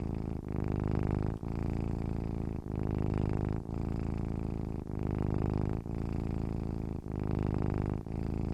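Domestic cat purring close up: a low, continuous pulsing purr that dips briefly about once a second as it switches between breathing in and breathing out.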